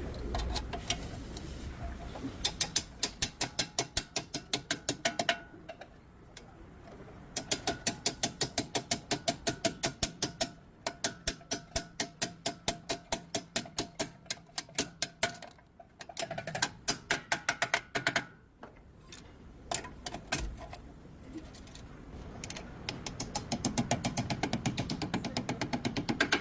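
Rapid, evenly spaced mechanical clicking, about seven clicks a second, in several runs of a few seconds each with short pauses between.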